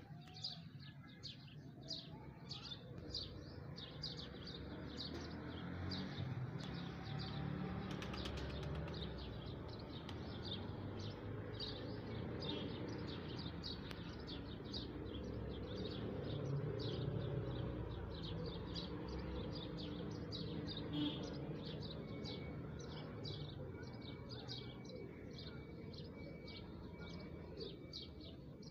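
Small birds chirping in quick, repeated high notes over a steady low rumble of outdoor background noise. Near the end a faint, high, broken tone joins in.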